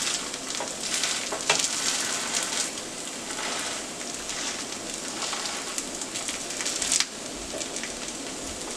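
Hash brown patties sizzling steadily as they fry in oil, with a few short scrapes as a plastic slotted spatula presses them down in the pan.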